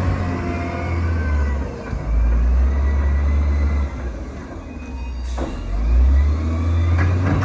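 Heavy diesel earthmoving machine working, its deep engine rumble swelling and easing as it revs up and down under load, with one sharp knock a little past five seconds in.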